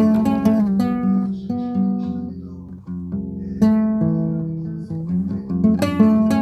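Guitar music: a melody of plucked notes opening with a quick run, with fuller chords struck about three and a half and six seconds in.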